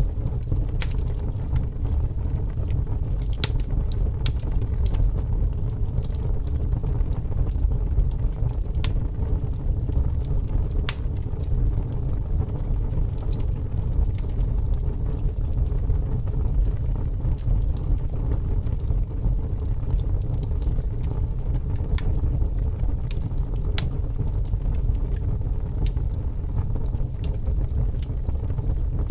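Fire burning with a steady low rushing noise and scattered sharp crackles and pops, irregularly spaced, about one every second or two.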